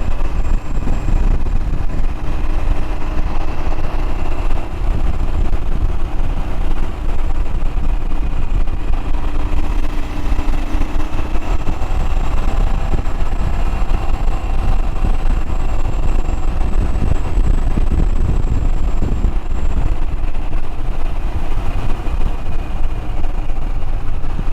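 Royal Enfield Himalayan single-cylinder motorcycle engine running steadily while the bike is ridden along, with a heavy low rumble of wind noise on the microphone.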